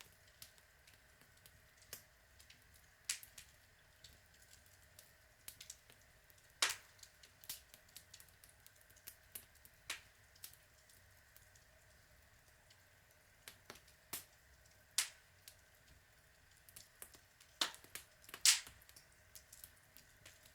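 Outdoor log fire crackling: irregular sharp pops and snaps at random intervals over a faint steady background, with the loudest pops about a third of the way in and near the end.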